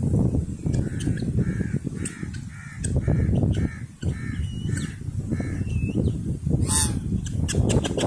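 A bird calling in a series of about nine short calls, roughly two a second, over a steady low rumble, with one louder sharp call near the end.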